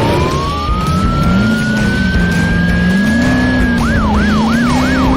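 Police car siren: one long wail rising slowly in pitch, then about four seconds in switching to a fast yelp that rises and falls about three times a second, over a low wavering tone.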